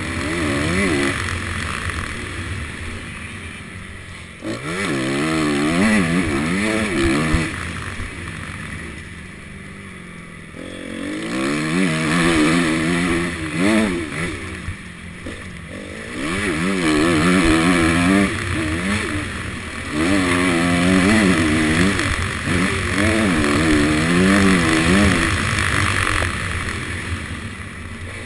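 Honda CRF250 motocross bike's four-stroke single-cylinder engine, heard from the rider's helmet, revving up and falling back over and over as it is ridden through the gears. The throttle is rolled off briefly a few seconds in, and again for a few seconds about a third of the way through, before the engine pulls hard again.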